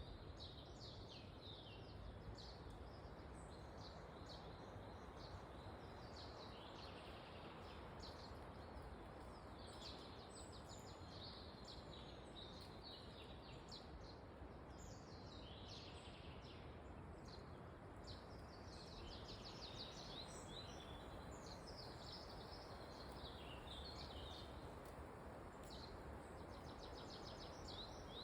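Faint steady rush of wind in a forest, with many small birds chirping and trilling throughout.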